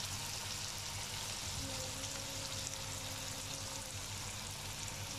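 Onions, tomatoes and green chillies steadily sizzling in oil in a frying pan.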